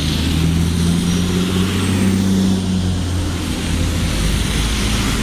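Engine of a large vehicle running, a steady low drone that eases slightly partway through.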